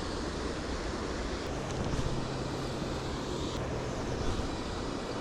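Steady outdoor noise of wind on the microphone and moving water, with a low steady hum that comes in about one and a half seconds in and fades near three and a half seconds.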